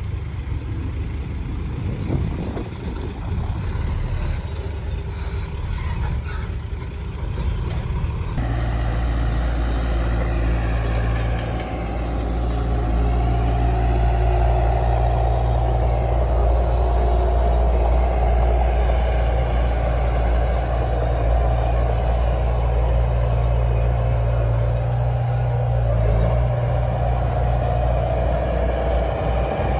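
Heavy diesel earthmoving machinery running steadily. The sound changes abruptly about eight seconds in to a louder, steady low engine hum, which grows louder again a few seconds later.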